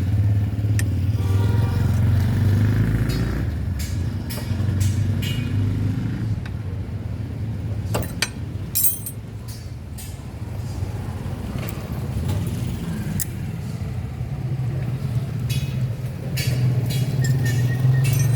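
An engine running steadily with a low hum that swells and eases, with scattered sharp metallic clinks over it.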